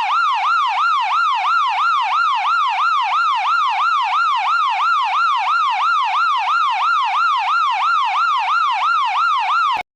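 Electronic emergency-vehicle siren on a fast yelp, its pitch sweeping up and down about three times a second. It cuts off suddenly near the end.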